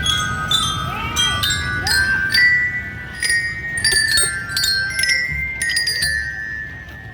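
Marching bell-lyra (glockenspiel) of a drum band playing a melody of struck, ringing metal notes, which thin out and fade near the end.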